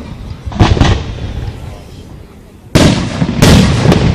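Fireworks aerial shells bursting: a pair of bangs just under a second in, then two loud booms near the end, each trailing off in an echoing rumble.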